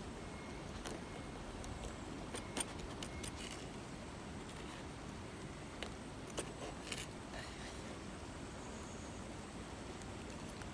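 A scattered handful of short, sharp clicks and small knocks, irregularly spaced, over a steady low background rush. The loudest click comes about two and a half seconds in.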